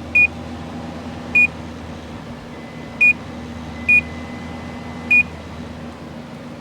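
Five short electronic beeps at irregular intervals from a Samsung window air conditioner's control panel, over the steady hum of the unit running on fan only.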